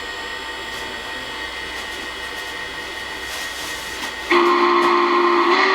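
Lionel Legacy RailSounds steam whistle of a model N&W J Class 4-8-4 locomotive: a steady hiss, then the whistle sounds suddenly about four seconds in, several tones at once, and swells a second later.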